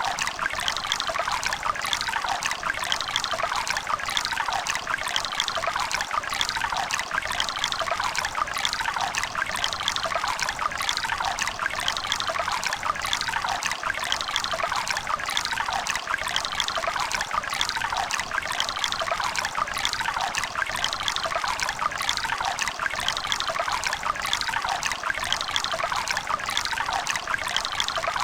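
Running river water: a steady babble and splash of water flowing over rocks, with close trickling detail.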